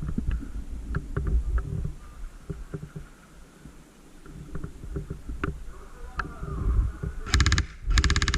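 Scattered low knocks and clicks of movement, then an airsoft gun fired in two short, rapid full-auto bursts near the end.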